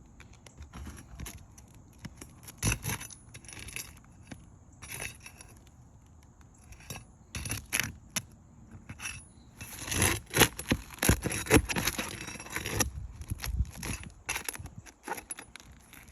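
A metal tool scraping and clinking against asphalt 3-tab shingles and rusty roofing nails as shingles are lifted and nails pulled out. Irregular scrapes and clicks, busiest about ten to thirteen seconds in.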